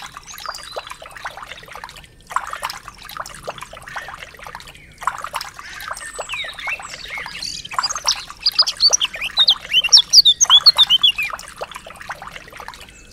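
A thin stream of water trickling from a miniature hand pump's spout into a small plastic trough, breaking off briefly a few times. Birds chirp over it from about halfway through, a quick run of high chirps that is the loudest part.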